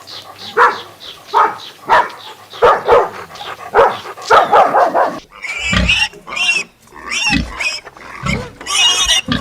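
Animal calls: short calls repeating about twice a second, then higher-pitched cries from about five seconds in.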